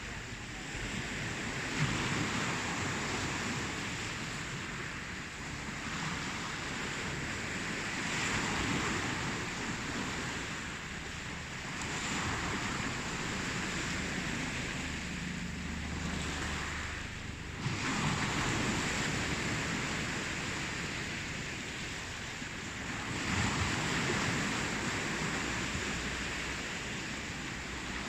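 Ocean surf: a continuous rush of waves that swells and falls back every few seconds.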